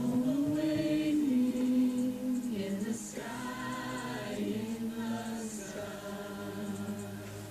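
Choir singing slow, sustained notes.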